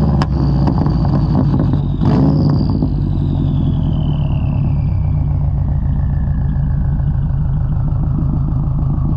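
2003 Subaru WRX's turbocharged flat-four engine running through a Tomei straight-pipe exhaust while driving. It surges briefly about two seconds in, then settles into a steady drone with a thin whine that slowly falls in pitch.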